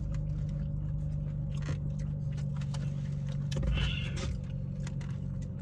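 Car engine idling, heard from inside the cabin as a steady low hum, just after being started. Light clicks and small handling noises from the food boxes come over it, with a brief rustle about four seconds in.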